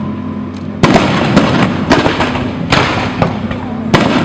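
Aerial fireworks going off: a string of sharp bangs, roughly one every half second to a second, starting about a second in, with crackling between them.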